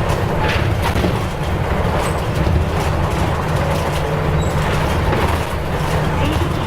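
Nissan Diesel U-UA440LSN city bus running, heard from on board: a steady low diesel engine drone with road noise and a few brief rattles.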